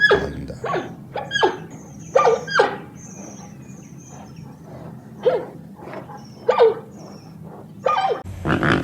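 A series of short, sharp animal calls, like barks or yelps, some in quick pairs with longer gaps between others. Faint high chirping is heard in the quieter stretch in the middle.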